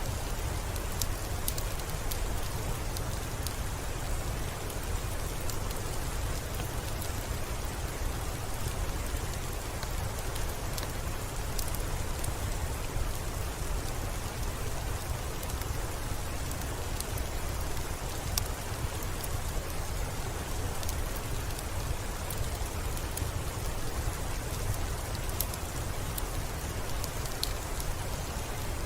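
Steady rainfall: a continuous, even hiss with a strong low rumble underneath and scattered sharp ticks throughout.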